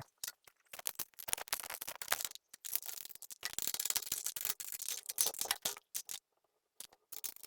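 Screws being driven into the ceiling fan's blade mounts with a screwdriver: a run of irregular small metal clicks and rattles, with a brief pause late on.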